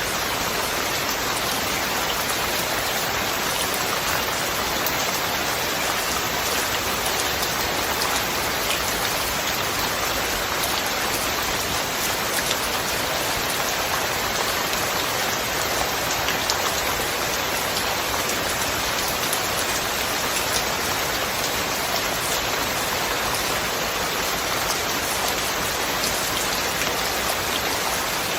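Steady rain falling: an even hiss with many small drop ticks, no thunder.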